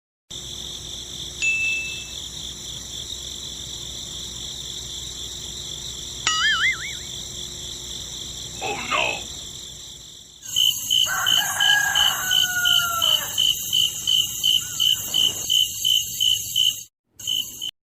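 A rooster crowing over a steady high-pitched buzz, with a rapid pulsing chirp about three times a second through the second half.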